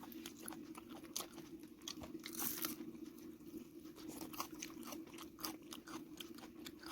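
A person chewing and biting into chicken curry close to the microphone, with irregular small crunches and wet clicks.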